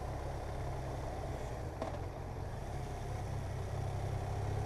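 Motorcycle engine running steadily while riding along, its pitch drifting slightly, with one short click about two seconds in.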